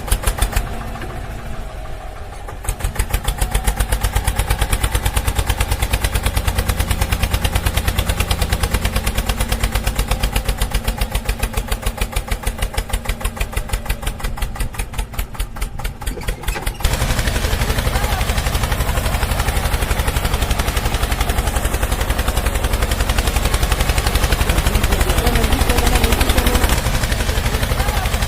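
Tractor engine running with an even, thudding beat; about two-thirds of the way through it grows louder and heavier, as when the tractor takes up a pulling load.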